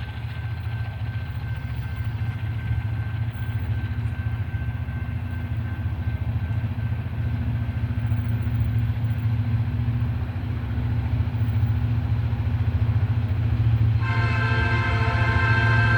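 Diesel freight locomotives running with a steady low engine rumble that slowly grows louder; near the end the locomotive's air horn starts blowing and holds.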